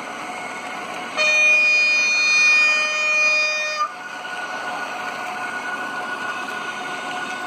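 Model train locomotive's sound decoder sounding its horn once for about two and a half seconds, cutting off abruptly, over the steady whir of a model train running on the track.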